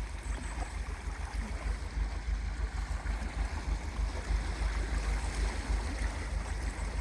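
Wind buffeting the microphone in uneven gusts, over the steady wash of sea water against the shoreline rocks.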